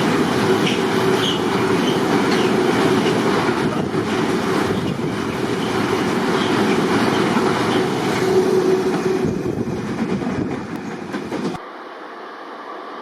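Rail Force One freight train rolling past, its wheels clacking over the rail joints with a faint steady squeal. Near the end the sound cuts off suddenly to a much quieter background.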